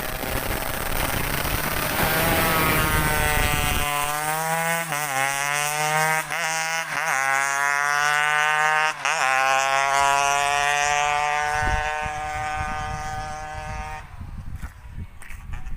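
Two-stroke 116 cc Yamaha F1ZR engine revving hard under full throttle, its pitch climbing steadily with several brief dips and re-rises like gear changes, then fading away near the end.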